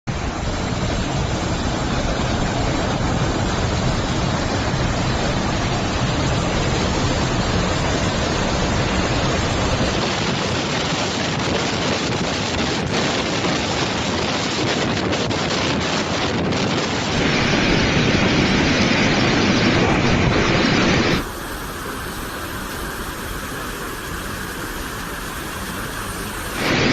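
Steady rushing noise of typhoon wind and rain, heard through several clips that change abruptly in tone about 10, 17 and 21 seconds in and again just before the end.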